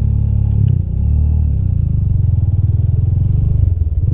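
Rusi Classic 250 motorcycle engine running under way. Its note dips briefly about a second in, then picks up again with a fast, even pulsing.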